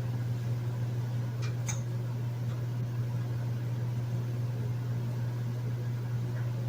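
Hotel room air conditioner running with a steady low hum and an even rush of air, with a faint click about a second and a half in.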